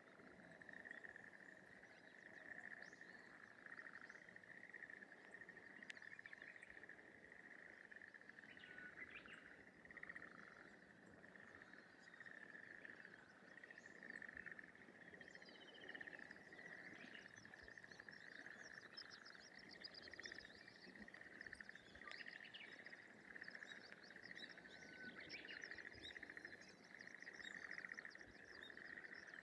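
Faint chorus of frogs calling in a rice paddy, a continuous steady sound held at one pitch, with scattered short bird chirps and whistles above it.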